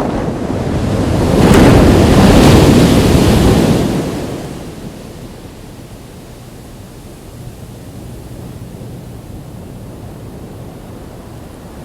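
Ocean waves breaking on a beach: one wave swells, crashes loudest around two to three seconds in, then draws back to a low steady wash.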